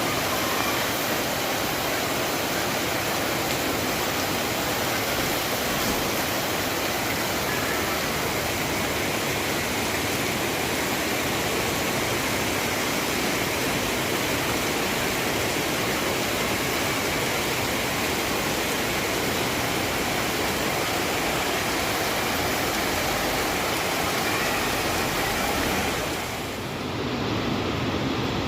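Heavy downpour: a steady, dense rush of rain noise that briefly drops in level and thins in the highs near the end.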